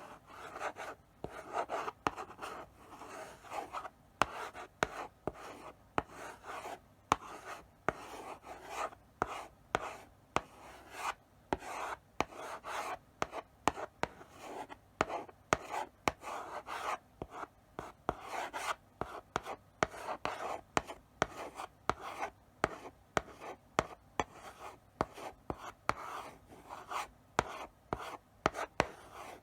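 Chalk writing slowly on a blackboard: short scratching strokes broken by frequent sharp taps as the chalk meets the board.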